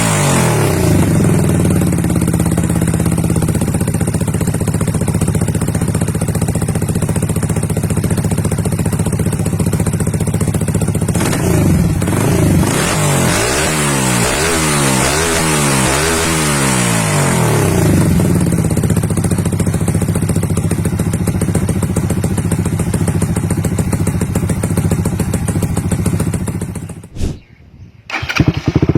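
Benelli RFS 150i's single-cylinder engine idling through an aftermarket exhaust, with a burst of about half a dozen quick throttle blips in the middle before it settles back to idle. Near the end the sound cuts out for about a second, then an idling engine comes back.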